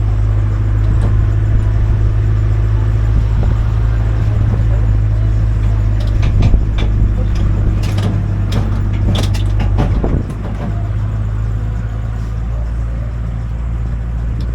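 Tourist road train's engine running with a steady low hum, with scattered clicks and rattles; the level drops a little about ten seconds in.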